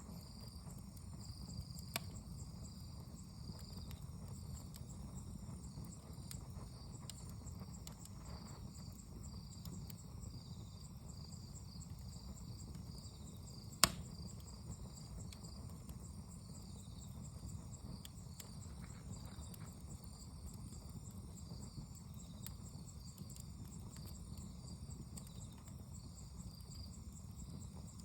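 Wood fire burning with a steady low rumble and two sharp pops, a small one about two seconds in and a loud one about halfway through. Insects chirr steadily in the background in a pulsing pattern.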